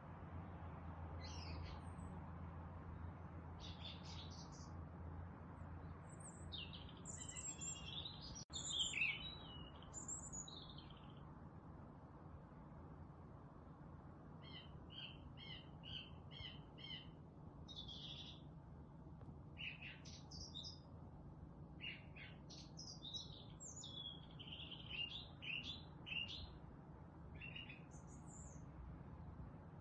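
Several songbirds chirping and singing in a forest, including a run of about seven short, evenly spaced repeated notes about halfway through, over a steady low background rumble.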